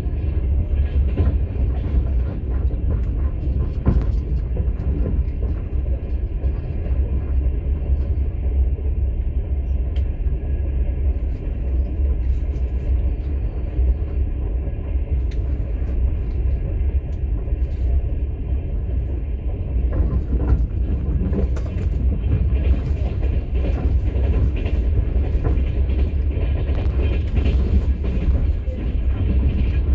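Passenger train heard from inside a platzkart sleeper carriage: a steady low rumble of the carriage running along the track, with scattered faint clicks and knocks.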